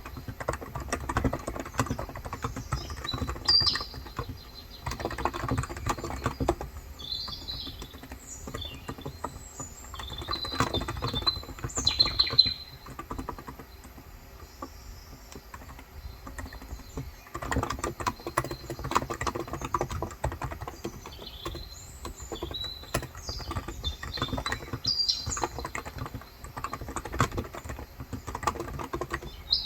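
Typing on a Cox Endeavor electrostatic-capacitive keyboard with light 35 g switches, fast runs of soft key clicks with a pause in the middle. Birds chirp throughout.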